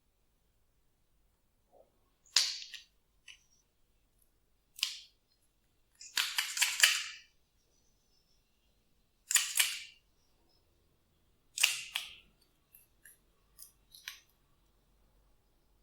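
Hands pressing and stretching glossy slime: short, sharp, wet crackling pops, about five bursts with the third one longest, then a few small clicks near the end.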